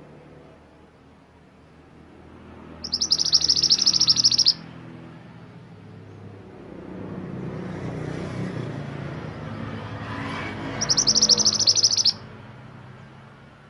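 Mantenan gunung songbird singing: two bursts of rapid, high-pitched trilling song, each about a second and a half long, about three seconds in and near the end. A low background rumble swells between them.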